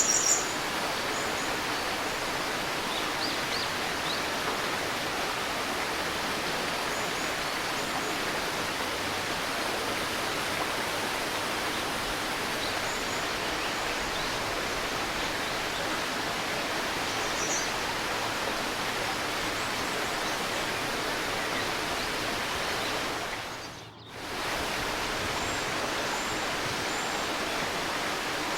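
Steady babbling of a river, with a few brief high bird chirps now and then. The whole sound dips out for a moment and comes back about three-quarters of the way through.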